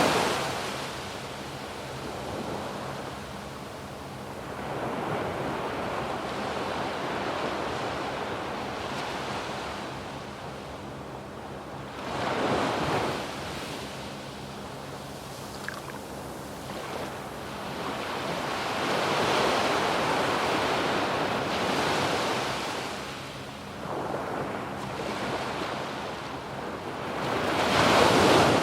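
Ocean surf on a sandy beach: waves breaking and washing up the shore, the wash swelling and ebbing in slow surges, with the loudest breaks about twelve seconds in and near the end. Some wind rumbles on the microphone.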